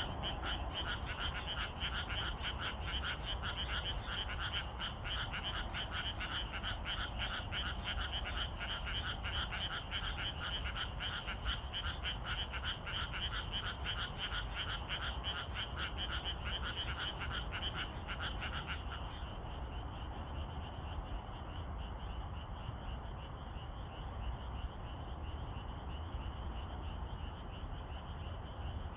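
Frogs croaking in a fast, even pulsing chorus of several calls a second, which stops about two-thirds of the way through. A steady high-pitched trill carries on underneath and remains after it.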